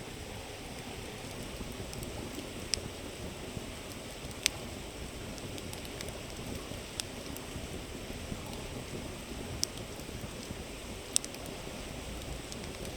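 Wood campfire crackling, with a sharp pop every couple of seconds, over the steady rushing of a river.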